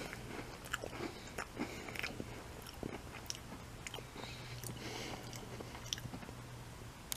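A person biting and chewing an Oreo-style chocolate cream sandwich cookie dipped in ketchup, close to the microphone, with irregular crisp crunches.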